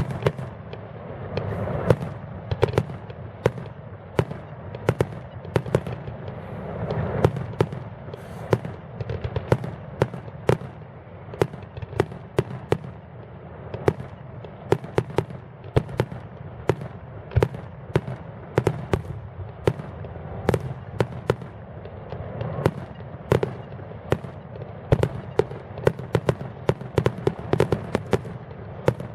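Fireworks display: a steady barrage of sharp bangs and crackles, often several a second, over a continuous low rumble of distant booms.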